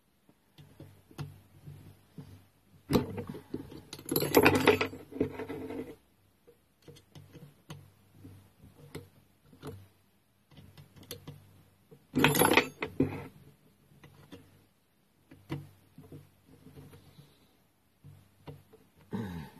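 Hand tools working on a two-stroke grass strimmer's engine while its ignition coil is undone: scattered clicks and light metal taps, with two louder rattling clatters, one about three to six seconds in and another around twelve seconds.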